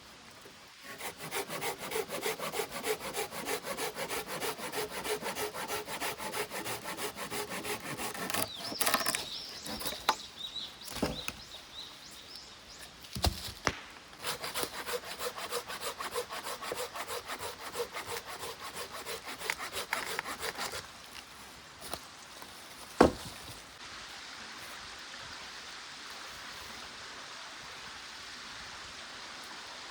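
Wood being cut with a hand saw: two long spells of quick back-and-forth saw strokes, with a sharp knock a little after the second spell stops, then only the steady rush of a stream.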